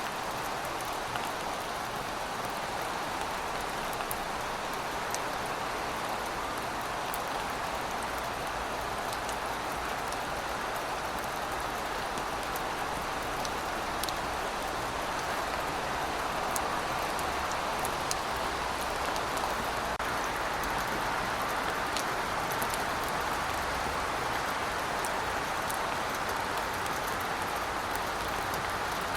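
Steady rainfall: an even hiss of rain with occasional faint drop ticks.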